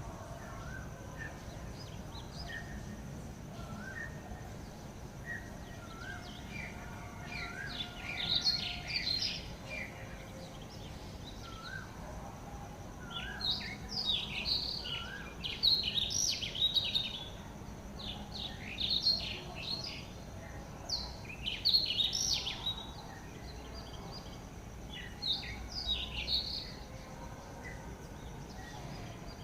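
Wild birds calling and singing: one bird repeats a short rising note every second or two, while bursts of fast, chattering song come and go over it from about a quarter of the way in. A faint steady high hum runs underneath.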